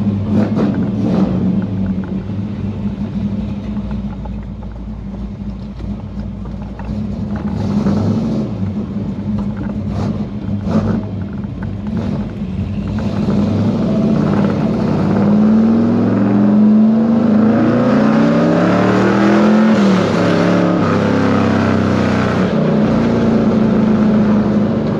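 A 1969 Chevelle SS Yenko tribute's V8 engine running as the car is driven. About halfway through it gets louder and the engine note rises and falls as the car accelerates at part throttle.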